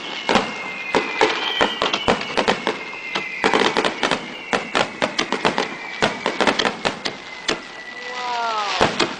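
Aerial fireworks bursting in rapid succession, many sharp bangs and crackles, with a long high whistle slowly falling in pitch through them.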